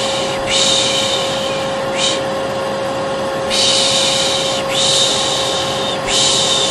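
Vacuum cleaner running with a steady hum, overlaid by a voice shushing 'shhh' again and again, each shush about a second long with short gaps. This is the Turkish 'pış pış' shushing used to lull a baby.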